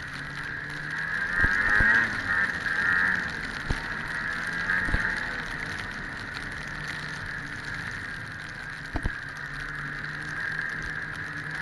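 1997 Ski-Doo MXZ 670 snowmobile under way on a trail, its two-stroke triple engine running at a steady pace with a high steady rush over it that swells briefly about two seconds in. A few sharp knocks are heard along the way.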